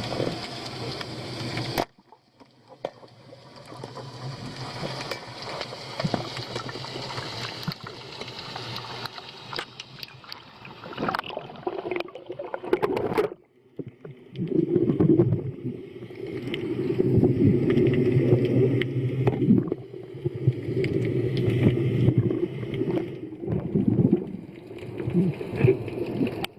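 Seawater sloshing and gurgling around a diver's camera in rough water, a noisy wash with no clear tone. It cuts off abruptly about two seconds in and again past the middle, and is louder and heavier in the second half.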